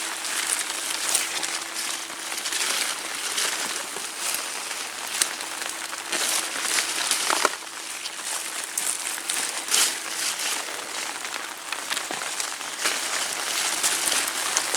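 Rain falling on an umbrella held close over the microphone: a steady hiss of rain with many irregular sharp drop hits on the fabric.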